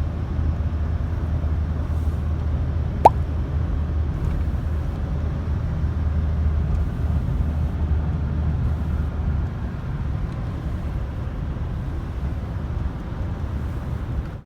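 Steady low rumble of a vehicle in motion, heard from inside, with one sharp click about three seconds in.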